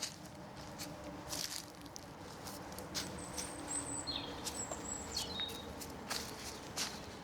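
Footsteps of a walker on a trail at an easy pace, with a bird's high, thin whistled calls in the middle.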